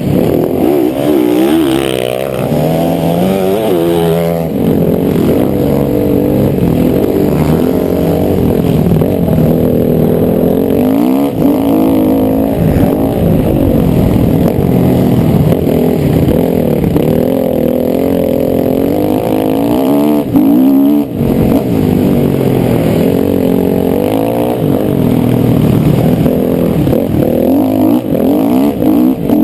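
Motocross bike engine revving hard, its pitch rising and falling again and again with throttle and gear changes, heard close up. It briefly drops off about two-thirds of the way through before picking up again.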